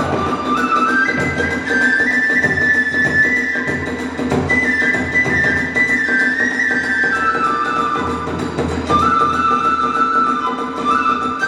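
Kagura hayashi music: a bamboo transverse flute (fue) plays a stepping melody that climbs and falls, over steady drum and percussion accompaniment.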